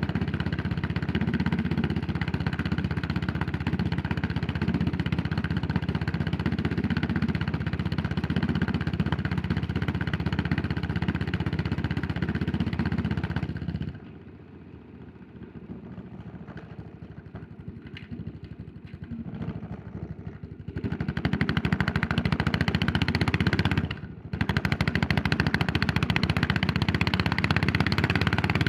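Yamaha SR400's single-cylinder engine running under way, then dropping much quieter for about seven seconds about halfway through before pulling loud again, with one short dip in level a few seconds later.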